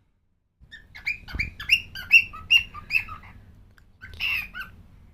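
Cockatiel chirping and whistling a quick run of short notes, then a single harsher, louder call near the end.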